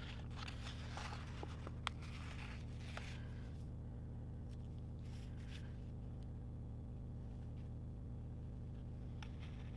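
Faint rustling and light taps of sticker sheets being handled and stickers pressed onto a paper planner page in the first few seconds, with one sharper click about two seconds in, over a steady low hum.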